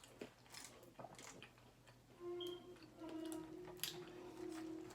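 Eating sounds: chewing and small wet clicks and crackles of fast food being eaten. About two seconds in, a steady low tone comes in and holds for nearly three seconds.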